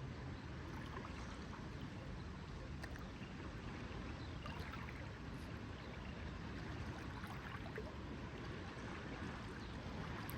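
Lake water lapping gently at the shore, with small scattered splashes and drips over a steady low background.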